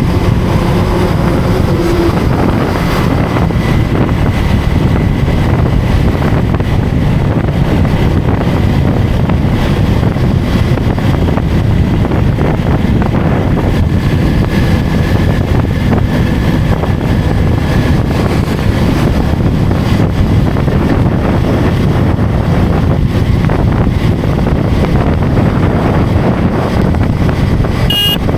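Motorcycle engine running steadily under way, with wind buffeting the microphone and road noise.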